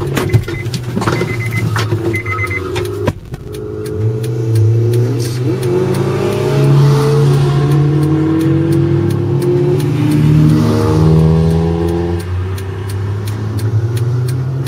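Car engine running under load, its revs rising and falling repeatedly as it accelerates and eases off. The first three seconds carry a cluster of sharp knocks and clicks and two short high beeps, with a brief drop in level just after three seconds.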